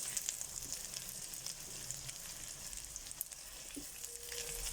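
Chopped onion frying in oil in a pan, a steady sizzle with small scattered crackles as the onion browns.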